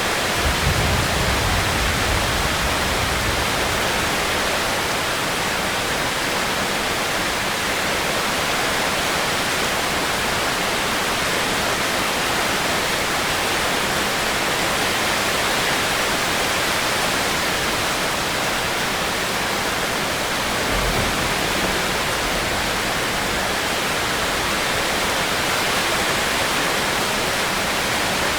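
Steady heavy rain falling, an even hiss. Two brief low rumbles rise under it, one about a second in and one about twenty seconds later.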